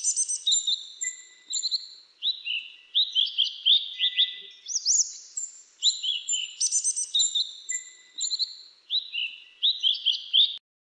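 Songbird sold as the 'Mantenan Dagu Kelabu' (grey-chinned mantenan) singing a fast, high-pitched song of quick rising chirps and trills. The same phrase comes round about every five seconds, and it stops suddenly near the end.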